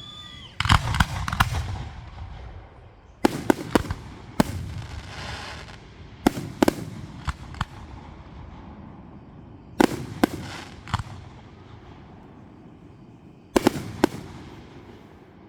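Fireworks exploding overhead: sharp bangs in groups of two or three every few seconds, some trailed by a crackling hiss.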